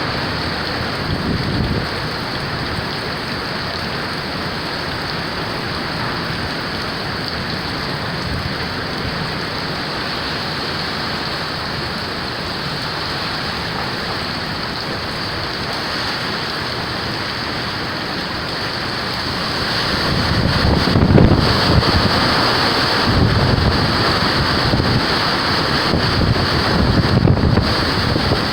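Hurricane wind and rain blowing steadily, with wind buffeting the microphone. The gusts strengthen about twenty seconds in, adding a low rumble.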